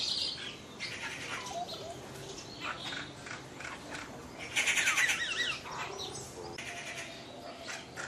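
Birds calling in foliage: scattered chirps and short whistles, with a louder run of quick repeated high notes a little past halfway and more calling near the end.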